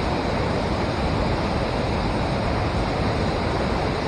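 Steady rush of river water pouring over a dam, an even, unbroken noise with no distinct events.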